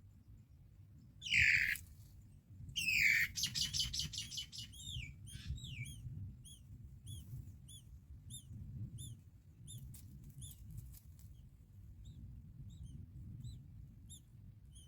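Birds at a nest calling: a loud harsh call about a second in, a louder rattling call at about three seconds, then a run of short high chirps, about two a second, that grow fainter toward the end, over a low steady rumble.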